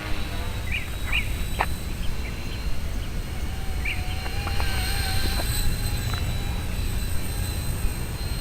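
Strong wind buffeting the microphone with a steady low rumble, over a thin high whine from the Align T-Rex 100 micro RC helicopter's motor and rotor. A few short chirps are heard in the first half.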